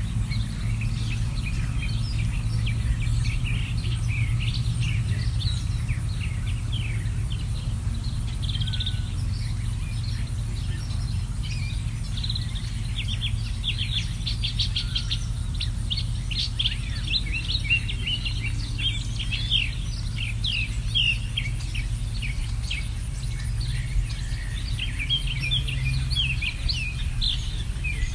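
Many small birds chirping in quick, short notes, thickest through the middle of the stretch, over a steady low rumble.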